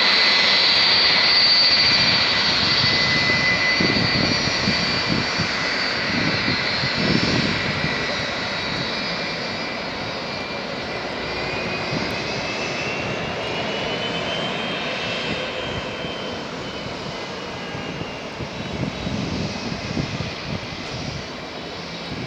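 Jet airliner's engines: a steady high whine over a broad rush, loudest at the start and slowly fading away.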